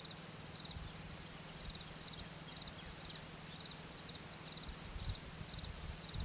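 Insects, crickets by the sound of it, chirping in a chorus: high pulsed chirps repeating about twice a second over a steady high-pitched drone.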